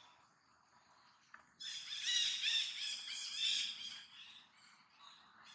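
A bird calling in a rapid run of high chirping notes for about two seconds, starting about a second and a half in, over faint forest background.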